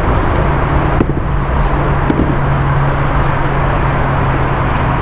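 Steady loud rushing noise with a constant low hum underneath, unchanging throughout.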